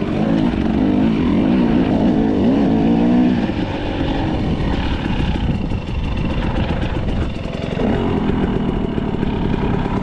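Dirt bike engine running under the rider, its pitch rising and falling with the throttle for the first few seconds, then running rougher and more evenly.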